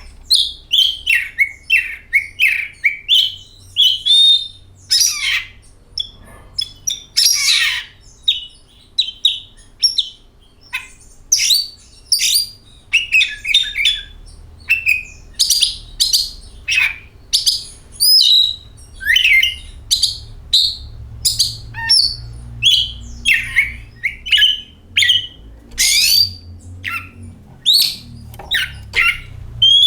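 Oriental magpie-robin (kacer) singing: a long, fast run of varied clear whistles, rising and falling sweeps and chirps, with a few harsher notes mixed in, several notes a second with only brief gaps.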